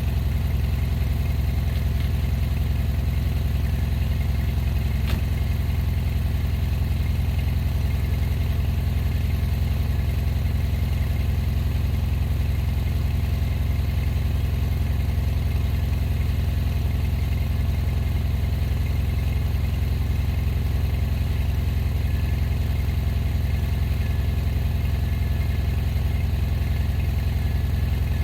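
Vehicle engine running steadily at an even low speed, a constant low hum with no revving.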